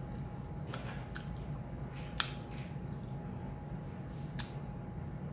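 Close-up eating sounds: wet chewing and lip smacks while eating spaghetti, with a few sharp clicks, the loudest a little over two seconds in. A faint steady tone runs underneath.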